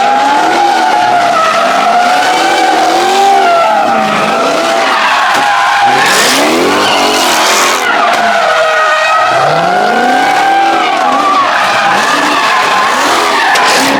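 A car's tyres squeal continuously as it slides, with a wavering high note, while its engine revs up and down over and over. There is a louder rush of noise about halfway through.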